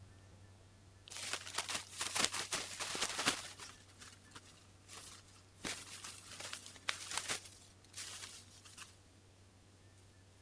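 Irregular rustling and crunching in clusters, starting about a second in and dying away near the end, over a low steady hum.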